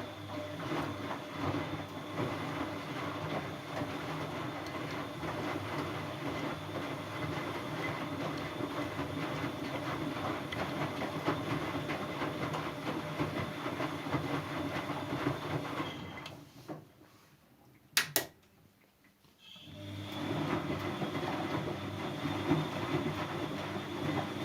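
Siemens Siwamat C10 washing machine running with a steady mechanical hum and whine. About two-thirds of the way through it stops, there is a sharp click, and it starts up again.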